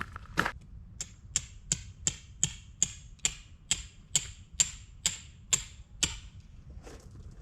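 A steady series of about a dozen sharp strikes with a metallic ring, roughly two to three a second, slowing slightly and stopping about six seconds in.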